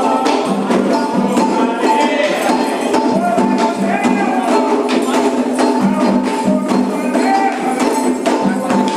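Candomblé ritual music: dense, steady hand percussion with rattle-like and clicking strokes, under sustained chanted voices.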